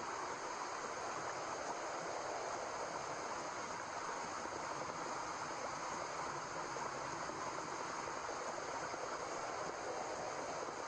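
Steady white noise, an even hiss that does not change, played as a sleep aid for a baby.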